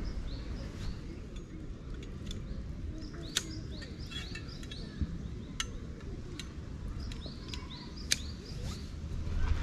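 Small birds chirping over and over in short high calls, above a steady low rumble, with a few sharp clicks or taps about three, five and eight seconds in.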